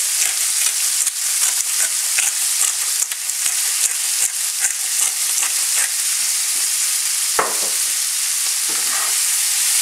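Sliced chorizo and garlic sizzling steadily in olive oil in a frying pan, with small crackles throughout and a single knock about seven seconds in.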